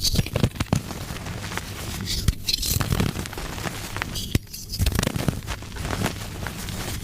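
Soft gym chalk being crushed and crumbled, a dense run of dry crackles with a few louder sharp snaps.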